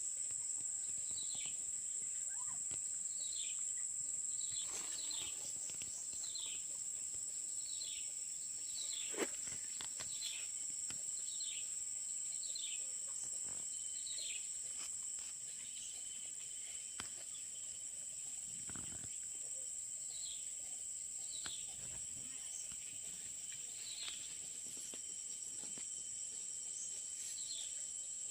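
Steady high-pitched drone of insects such as crickets, with a repeated short falling chirp about every 0.7 s that grows sparser in the second half. A sharp click about 9 seconds in.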